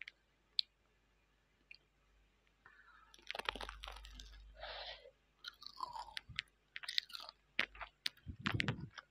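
Close-up biting and chewing of a breaded mozzarella sausage on a stick, crunching through the crust. It is nearly quiet for the first three seconds, then the chewing runs on, loudest near the end.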